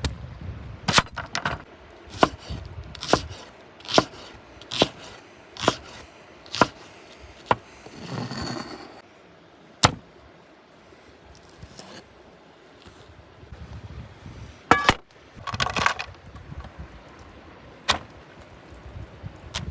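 Chopping: sharp strokes about one a second, then a short scraping stretch, a single hard knock, and a few scattered knocks and scrapes near the end.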